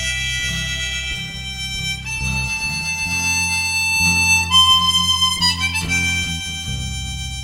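Harmonica playing a slow melody of long held notes, changing pitch a few times, over bass and guitar: the instrumental intro of a folk song, before the vocals.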